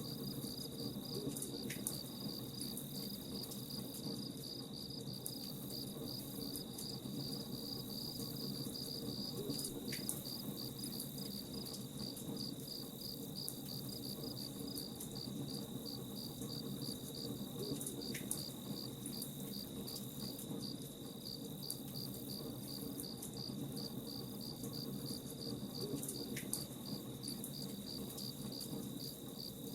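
Crickets chirping steadily in an even rhythm of about two chirps a second, over a continuous low rumble with faint scattered crackles of a campfire.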